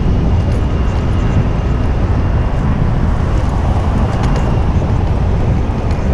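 Steady city street traffic noise heard from a moving bicycle, with wind rushing over the microphone and a faint thin whine in the background.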